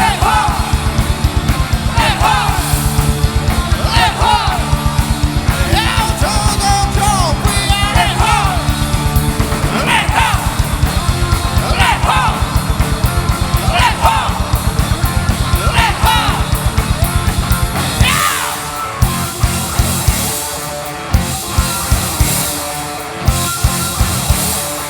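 Live rock band playing fast heavy metal with shouted, sliding vocals over a driving drum beat and distorted guitars. About 18 seconds in, the steady beat stops and the song ends in a series of separate drum and cymbal hits.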